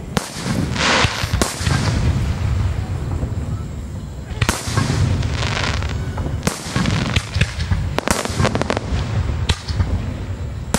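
Aerial firework shells bursting overhead: several sharp bangs, some trailed by a hissing shower, with a run of quick crackles about two-thirds of the way through.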